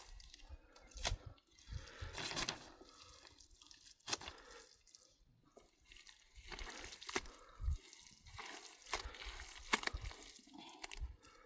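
Irregular splashes and drips of water, with a few sharp knocks among them.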